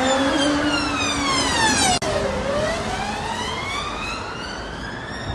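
Emergency vehicle siren wailing: its pitch falls slowly for about two seconds, then rises again, with a brief break about two seconds in.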